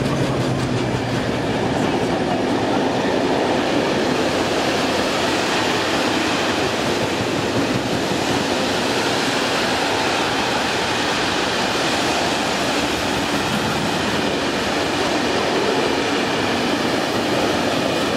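A train passing close by: a steady, loud rush of wheels on the rails, with a low steady drone that fades about a second in.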